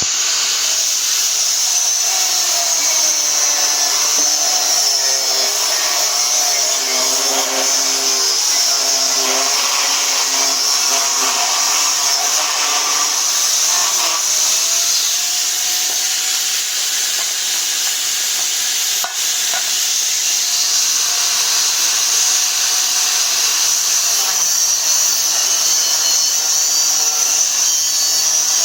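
A power tool running steadily as it cuts wood, a continuous high hiss. A faint wavering pitched sound is mixed in during the first half.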